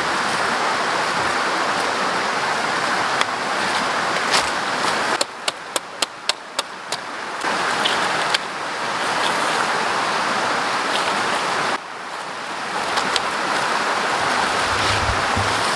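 Steady rushing water noise, with a quick run of about seven sharp clicks or knocks about five to seven seconds in while the rushing briefly drops.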